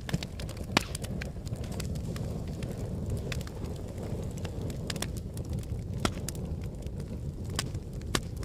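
Volcanic eruption: a steady low rumble with many sharp, irregular crackles and snaps, typical of a lava flow up close.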